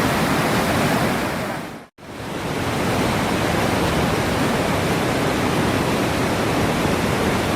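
Wachirathan Waterfall's heavy cascade making a steady, loud rushing noise. It fades out to silence for a moment about two seconds in, then comes back.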